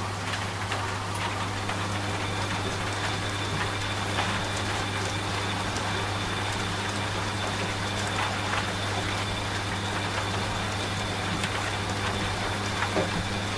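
Washing machine running with a steady low motor hum, over steady rain with scattered drop ticks. A faint high whine joins the hum about two seconds in.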